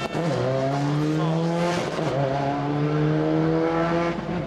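Subaru Impreza rally car's flat-four engine revving hard under acceleration, its pitch climbing steadily, dropping sharply about two seconds in, then climbing again.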